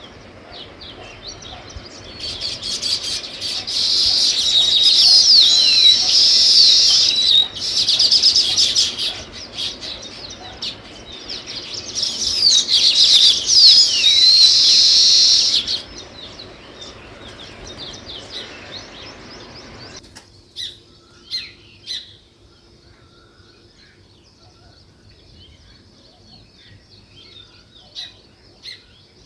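Flock of small songbirds chirping, with two loud spells of dense, fast overlapping chatter lasting a few seconds each. Quieter chirping follows, and about two-thirds of the way through the background hiss drops away suddenly, leaving sparse single chirps.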